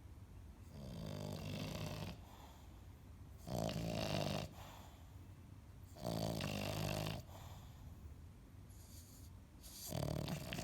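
A dog snoring in its sleep: four snores, each about a second long, coming every two and a half to three seconds, the first softer than the rest.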